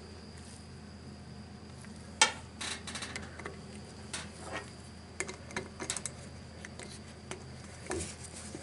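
Hand tools clinking and tapping on metal while bolts are worked loose: one sharp clink about two seconds in, then scattered lighter clicks.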